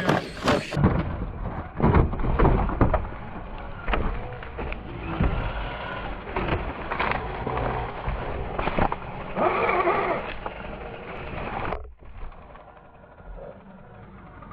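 Radio-controlled scale trail truck crawling over rocks: repeated knocks, clacks and scrapes of its tyres and chassis on stone. About twelve seconds in, the sound drops abruptly to a quieter background.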